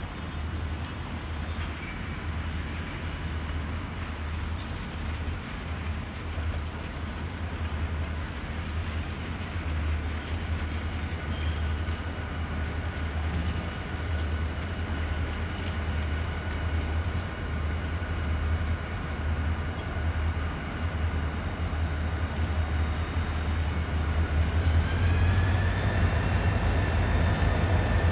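Diesel freight locomotives approaching, their low engine rumble growing steadily louder. About 25 seconds in, a whine rises in pitch and strengthens as they near.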